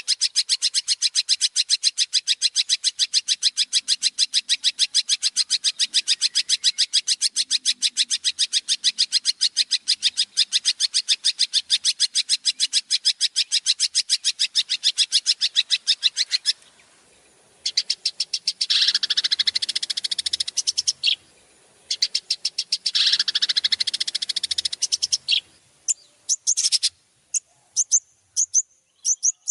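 Recorded songbird calls. A long, even, rapid trill of sharp high notes runs for about sixteen seconds, then two harsh rasping bursts follow, and near the end come separate short high whistles.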